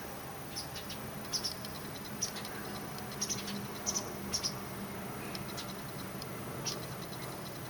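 White wagtail nestlings peeping: short, high chirps in scattered little clusters, with a steady low hum underneath.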